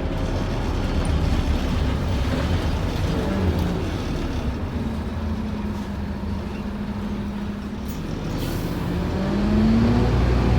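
Scania N230UD OmniCity double-decker bus's five-cylinder diesel engine running under road noise. Its note drops about three seconds in, holds steady, then climbs and grows louder near the end as the bus accelerates.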